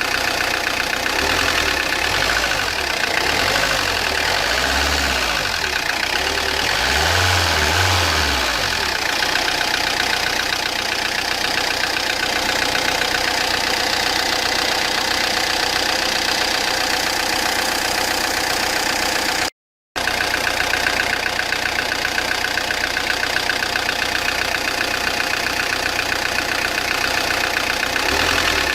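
Peugeot Partner 1.9 diesel engine idling with a loud, fast knocking clatter. The mechanic's belief is that the timing is wrong, with the timing belt off by a tooth so that the pistons meet the valves. The sound cuts out for a moment about two-thirds of the way through.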